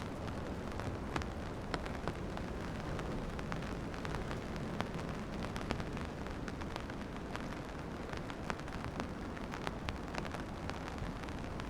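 Rain falling, many sharp drops striking close by over a steady low rumble.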